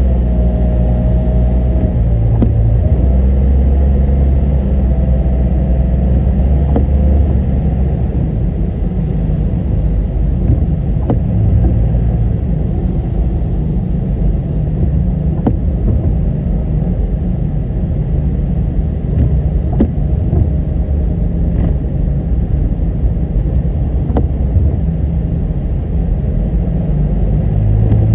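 Steady low rumble of a car driving along the road, with engine and tyre noise, and a faint tick about every four seconds.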